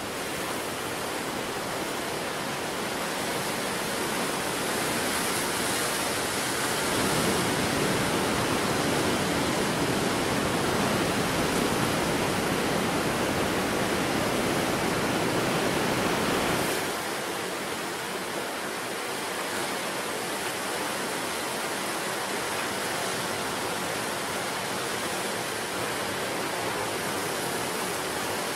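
Sea surf washing on the shore: a steady rush of water that swells louder from about a quarter of the way in and eases off again just past the middle.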